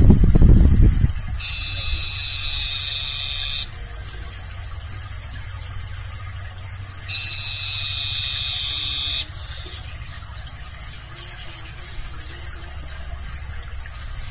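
Sirtu songbird calling twice, each call a long, steady, high-pitched note lasting about two seconds, several seconds apart. A loud low thump comes right at the start, over a steady low rumble.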